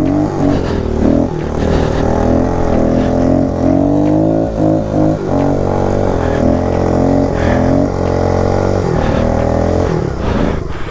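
Kawasaki KLX110 pit bike's small four-stroke single-cylinder engine being ridden, its pitch rising and falling again and again as the throttle is opened and closed.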